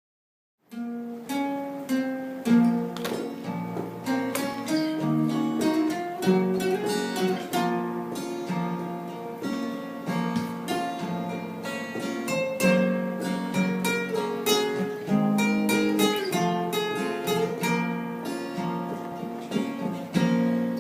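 Acoustic guitar playing an instrumental intro, picked melody notes with occasional strums, coming in after a short silence about a second in.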